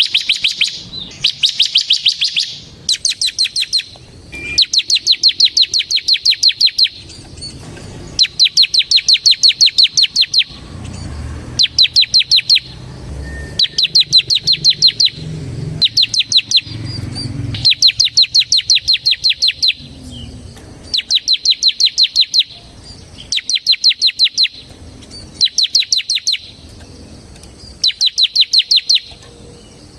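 Bar-winged prinia (ciblek) singing its rapid 'ngebren' trill. Each burst is about a second of fast, evenly repeated high notes, followed by a short pause, over and over, about a dozen times.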